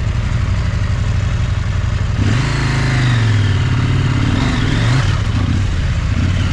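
Large parallel-twin adventure motorcycle engine running at a low, steady note, then revving up and down from about two seconds in as the bike is ridden over rocky ground.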